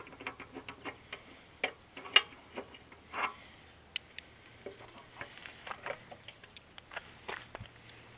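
Socket ratchet clicking in quick runs as the gas-tank bolts are turned out, with a few louder metallic clicks between the runs.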